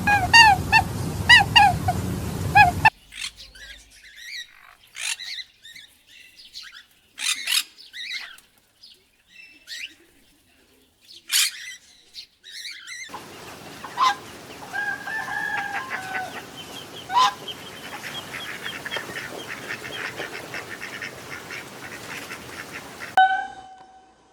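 Farmyard fowl calling. First comes a quick run of loud repeated calls lasting about three seconds, then scattered short high chirps, then from about halfway a steadier flock hubbub with occasional louder calls.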